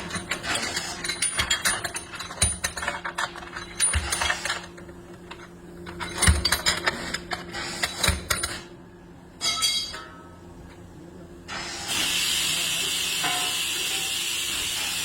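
Metal tyre tools clinking and clanking in quick, irregular strikes for about eight seconds. Then, about twelve seconds in, a steady hiss of air starts and keeps going.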